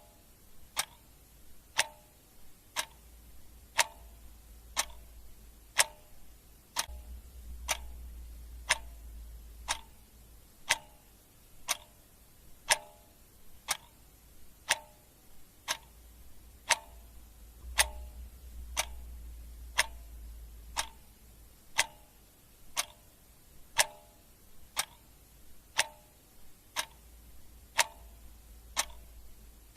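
Clock ticking steadily with evenly spaced ticks that alternate between a tick and a slightly different tock.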